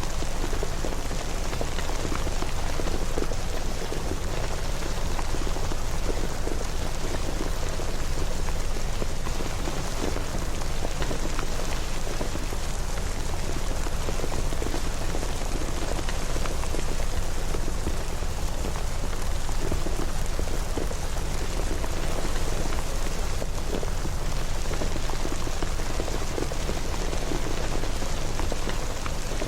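Steady rain falling, a continuous hiss with many fine drop impacts and no thunder.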